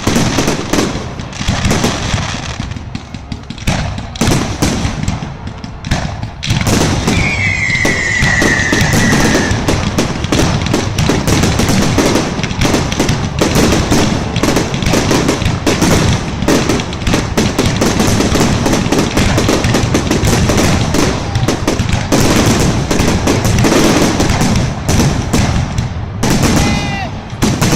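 Fireworks display: a rapid, continuous run of bangs and crackles that grows denser and louder about six seconds in. A whistling firework falls in pitch for a couple of seconds shortly after.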